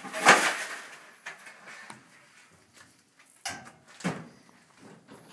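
Knocks and clatters from laundry being handled and hung up: one loud clatter about a quarter second in, then a few lighter knocks.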